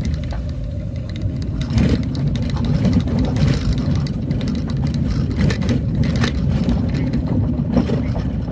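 Vehicle running: a steady low rumble with scattered knocks and rattles.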